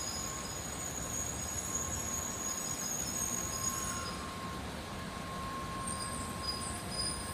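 N700A-series Shinkansen train moving slowly beside the platform: a steady hiss and hum with a thin high whine that fades out about four seconds in.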